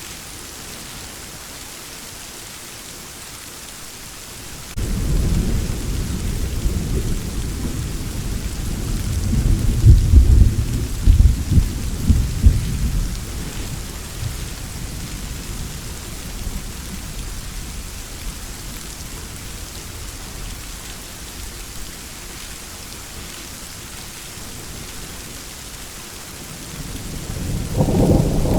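Steady rain with a thunderstorm: about five seconds in a deep thunder rumble starts suddenly, swells into several loud cracks and rolls off over the next ten seconds, and a second rumble begins near the end.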